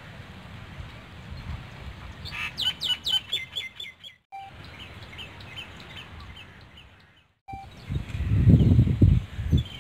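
A bird singing: a quick run of sharp, falling chirps a couple of seconds in, then fainter repeated chirps, over a low steady rumble. Near the end a much louder, pulsing low rumble takes over.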